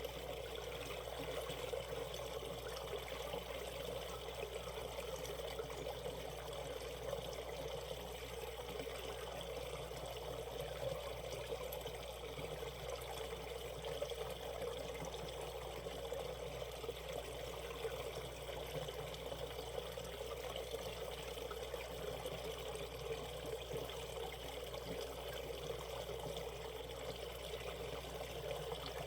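Shallow valley stream flowing steadily, an even rush of water.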